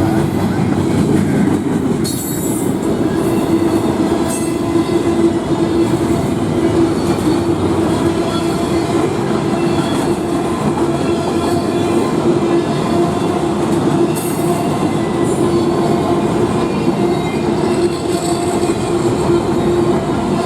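Norfolk Southern freight train rolling steadily past at a grade crossing: a loud continuous rumble of steel wheels on rail, with a steady whining tone from the wheels throughout and a few brief high hisses.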